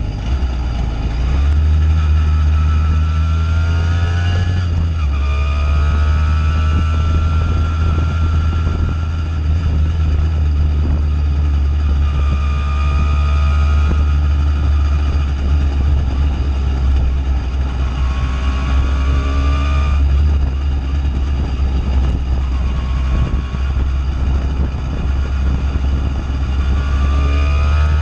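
Simson single-cylinder two-stroke moped engine with a JW 85G+ aftermarket exhaust, running under way: its pitch climbs as it accelerates and drops back at gear changes, a few times over.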